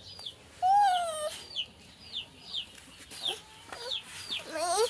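Birds calling: a string of short, high, falling peeps repeated every fraction of a second, with one louder arching call about half a second in and a rising call near the end.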